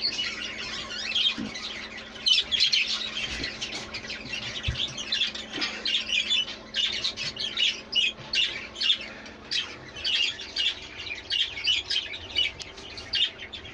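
A flock of budgerigars chattering and squawking, a dense stream of short, rapid calls with no pause.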